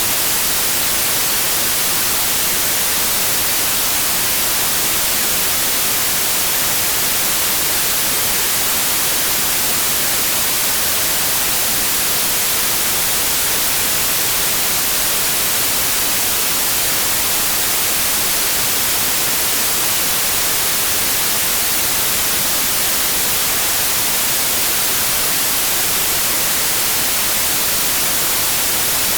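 Steady white noise: an even, unbroken hiss, brightest in the high frequencies, with no hum or rhythm in it.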